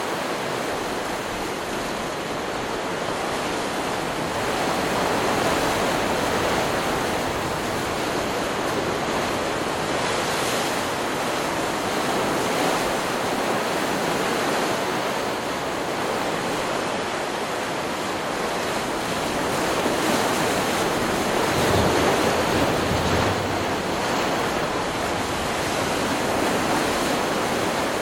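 Ocean surf from a stock beach recording: waves breaking and washing up the shore in a steady rush that swells and eases every several seconds, loudest a little past two-thirds of the way through.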